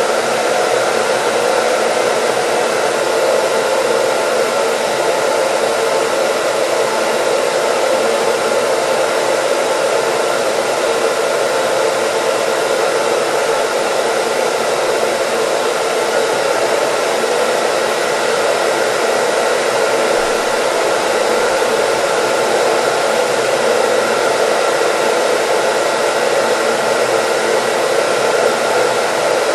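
Hair dryer running continuously: a steady, unchanging rush of blown air with faint steady tones from its motor.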